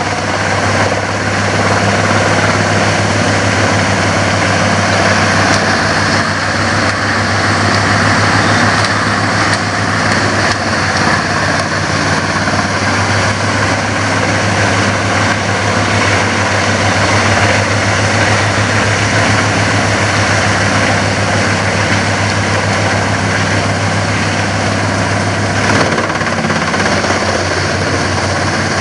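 Dutch Dragon EC10075 woodchipper running steadily: a constant low engine hum under a dense rushing noise. The low hum dips briefly near the end.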